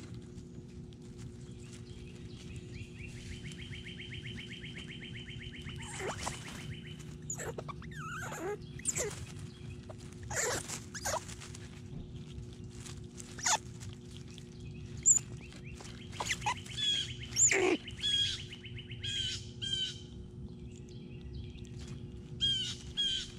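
Small songbirds calling: a fast trill lasting a few seconds, then scattered sharp chirps and short downward-sweeping notes repeated in short series, over a steady low hum.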